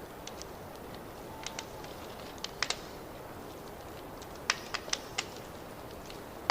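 Fireplace fire crackling: a steady low hiss of burning with scattered sharp pops, a few about a second and a half and two and a half seconds in and a louder cluster of four or five near the fourth and fifth seconds.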